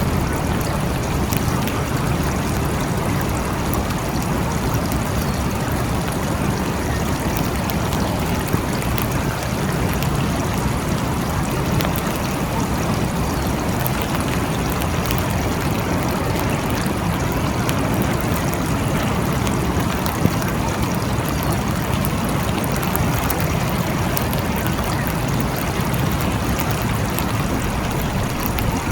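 Steady rain falling: an even hiss, with a few sharper ticks of drops.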